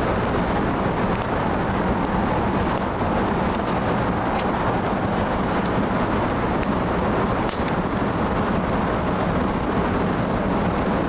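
Burning firewood, with faint scattered crackles and pops over a steady rushing noise.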